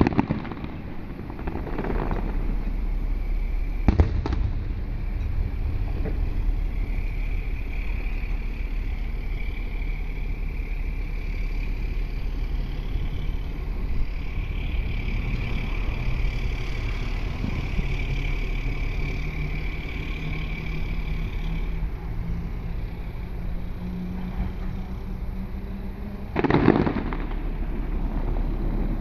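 Aerial fireworks going off in a quick run of bursts, then a single sharp bang about four seconds in and another loud boom near the end. In the lull between, an engine drones steadily, its pitch slowly rising.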